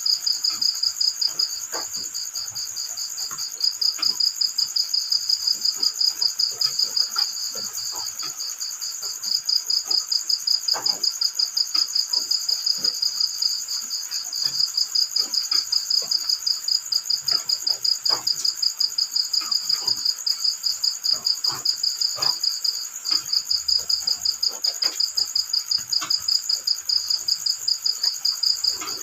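Cricket chirping in a fast, even pulse train at a high pitch, breaking off for a second or two a few times. Faint scattered ticks sound underneath.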